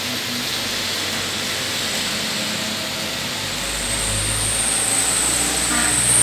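Road traffic at a junction in the rain: a steady hiss of rain and wet tyres with vehicle engine noise, a low rumble building about four seconds in as a vehicle passes, and a thin high whine starting about halfway through.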